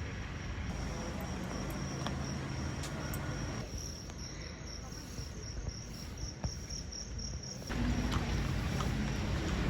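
An insect trilling on one high steady note, which breaks into even rapid pulses in the second half and stops about two seconds before the end, over a low background rumble.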